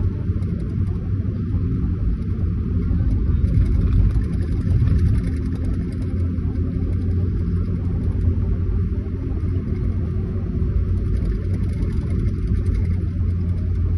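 Steady low rumble of a road vehicle in motion, with a continuous hiss of road noise above it.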